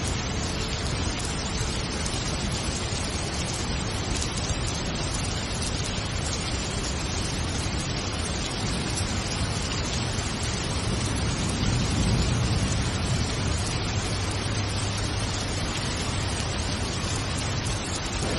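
Steady heavy rain, an even unbroken hiss, with a low rumble that swells and fades a little past the middle.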